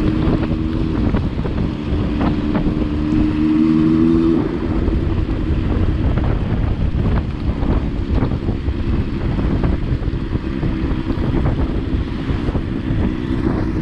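Strong wind buffeting the microphone, a heavy rumbling roar. A steady low hum sits under it, fading out about four seconds in and coming back in the second half.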